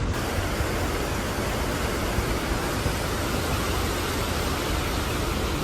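Steady, even rushing hiss of water, with no breaks or single strokes.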